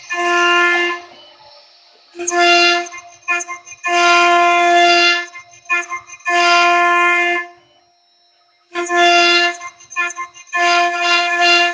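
Multi-head CNC router's drive motors whining as the gantry makes a series of moves: repeated bursts of one steady pitch, each lasting about half a second to a second and a half, with short pauses between them.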